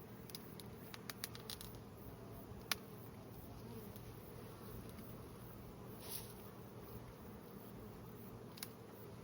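Honey bee swarm buzzing steadily. Over the buzz come a few sharp clicks and snaps from hand pruning cutters snipping small limbs, the loudest about two and a half seconds in.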